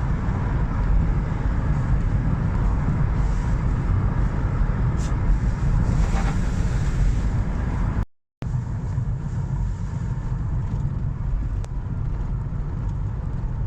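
Steady low rumble of wind buffeting the microphone outdoors, with a faint hiss above it. The sound cuts out completely for a moment a little past halfway, then resumes.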